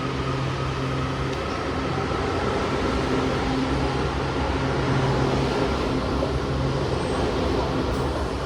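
Metro train rumbling through the station, a steady low rumble with a constant motor hum.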